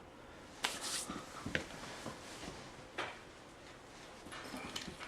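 Handling noise: a few light knocks and clicks of tools and the saw being moved about on a work surface, spread through a mostly quiet stretch.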